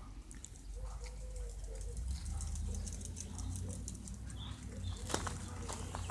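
Faint bird calls in the peach tree: low, short curving notes repeated several times, over light rustling and ticking of leaves and a low rumble.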